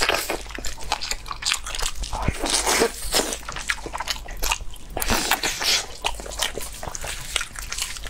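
A person chewing and biting into braised pork knuckle: a run of irregular wet mouth clicks and soft crunches.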